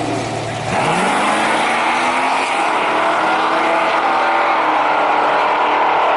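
A drag racing car's engine goes to full throttle off the line about a second in, its note climbing steadily as it accelerates down the strip.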